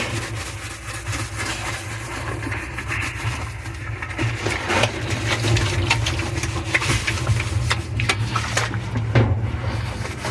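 A motor humming steadily, with scattered scrapes, clicks and knocks over it.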